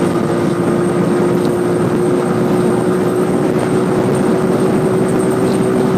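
Motorbike engine running at a steady cruising speed, with its one steady tone, under heavy wind noise on the helmet microphone.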